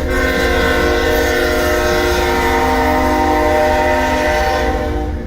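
Freight locomotive's air horn sounding one long blast, a chord of several steady tones that cuts off near the end, over a low rumble.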